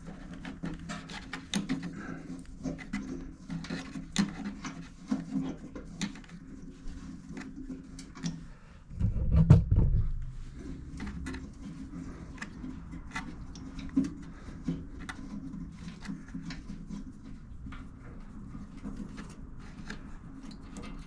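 Scattered clicks and clinks of hand work on the fuel petcock fitting of a small two-stroke generator's tank, with one dull thump about nine seconds in, over a steady low hum.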